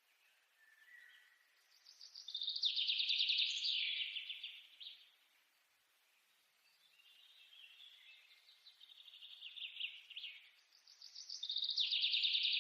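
A songbird singing two long, rapid trilling phrases, each swelling in loudness and then fading: one about two seconds in and another building to its loudest near the end.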